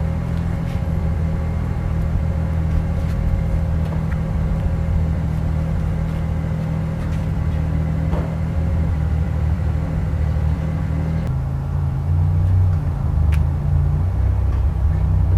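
Steady low mechanical hum and rumble from a running machine, its low tones shifting about eleven seconds in.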